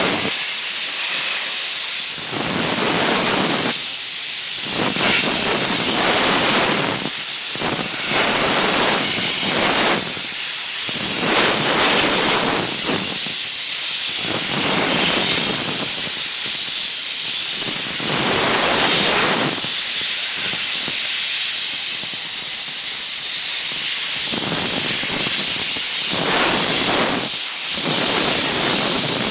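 Steam-cleaner nozzle jetting pressurised steam, a loud continuous hiss whose fuller, lower part swells and fades every second or two as the jet is worked over the car.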